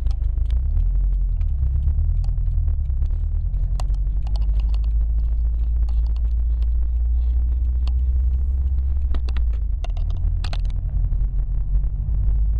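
2011 Subaru WRX sedan's turbocharged flat-four running with a steady low rumble, with scattered sharp clicks and knocks over it, in clusters about four seconds in and again around nine to ten seconds in.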